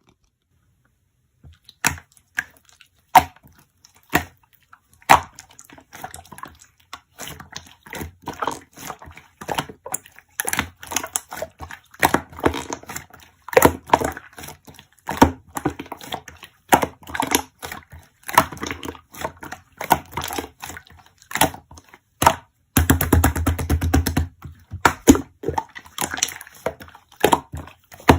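Slime being poked, pressed and squeezed: irregular sticky clicks and pops. About two-thirds of the way through comes a dense crackling run lasting over a second.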